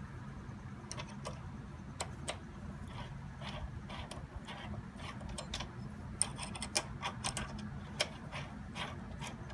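Scattered light metallic clicks and ticks of a socket-head screw and socket being fitted onto the height-adjustment shaft of a Delta planer, busier past the middle, over a low steady hum.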